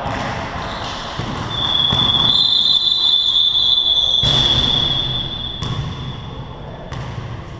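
Basketball game sounds in a hall: a long, steady high-pitched tone, such as a whistle or buzzer, holds for about five seconds, and a few sharp knocks like a ball bouncing on the court come through around the middle.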